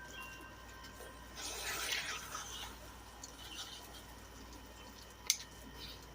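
Water poured from a bottle splashing for about a second as a rinse, followed near the end by a single sharp click, with faint thin high tones in the background.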